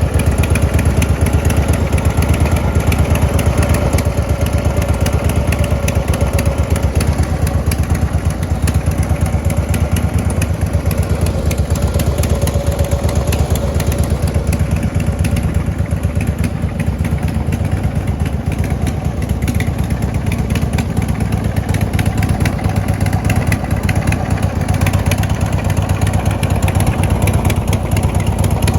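Harley-Davidson Twin Cam 96 V-twin of a 2009 Road Glide idling steadily through a Vance & Hines aftermarket exhaust, a fast even run of firing pulses.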